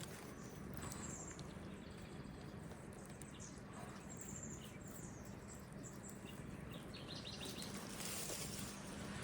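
Faint bird chirps and short twittering calls, including a quick run of several notes near the end, over steady outdoor background noise.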